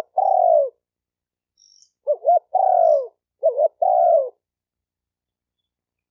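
Spotted dove cooing: a couple of quick short notes leading into a longer falling coo, in one phrase ending just after the start and two phrases in quick succession about two to four seconds in.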